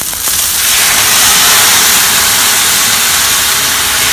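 Prawn stock ladled into a hot wok, hissing loudly as it boils off in steam. The hiss swells in about half a second in and then holds steady.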